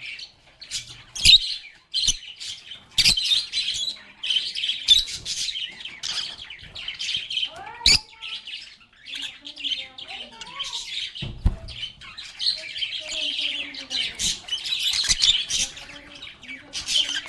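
A group of lovebirds chirping and chattering continuously in quick, high, overlapping calls, with some lower sliding calls mixed in. A few sharp knocks stand out: about a second in, at three seconds, around eight seconds, and near eleven and a half seconds.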